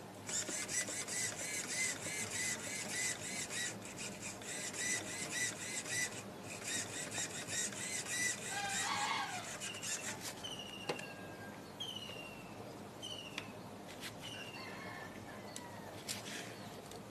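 Birds chirping: a dense, rapid high twittering through the first half, then a bird repeating a short falling whistle about once a second.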